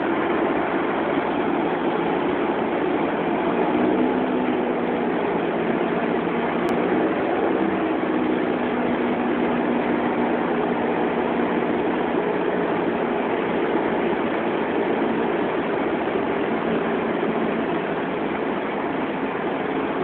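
Cessna 172's single piston engine and propeller droning steadily inside the cockpit, with airflow noise over the cabin. The engine note wavers slightly, with no sharp changes.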